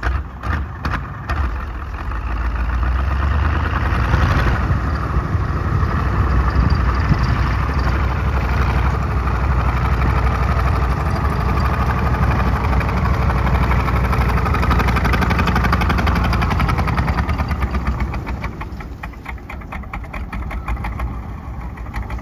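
KV-1 tank's V12 diesel engine: a few separate chugs, then it picks up and runs hard at high revs with a rapid pulsing beat. Near the end it drops back toward idle.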